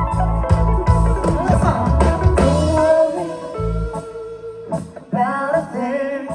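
Live band playing a reggae song, with bass, guitar, organ and a sliding vocal line. About three and a half seconds in, the bass drops out and the music thins to a quieter vocal passage.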